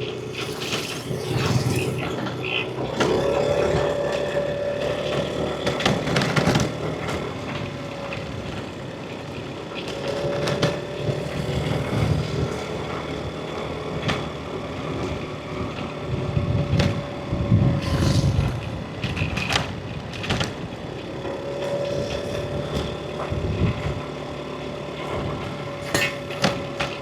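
Yamaha NMAX V3 scooter's single-cylinder engine running on the move, with road and wind noise. A steady whine comes in and drops away three times as the throttle is opened and eased, and sharp knocks from road bumps break in here and there.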